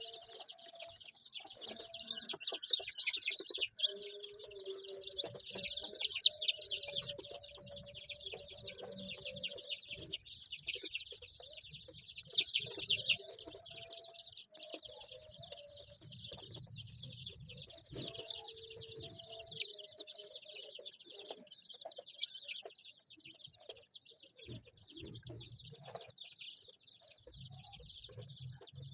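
A brood of five-day-old chicken chicks peeping continuously, with louder bouts of peeping a couple of seconds in and again about six seconds in.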